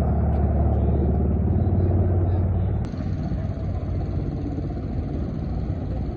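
Ka-52 attack helicopter's engine and rotor noise heard as a loud, steady low rumble. About three seconds in it changes abruptly to a somewhat quieter rumble with a faint high hiss.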